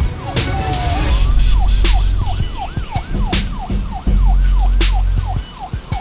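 Emergency siren in a fast yelp, its pitch sweeping up and down about four times a second, over a deep rumble with scattered sharp cracks and crashes.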